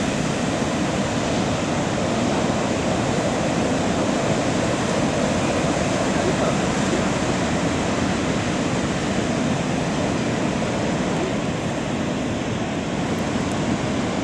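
Steady, even noise of heavy ocean surf breaking.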